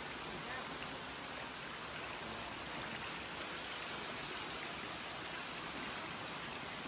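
Steady, even rushing noise with no separate sounds standing out of it.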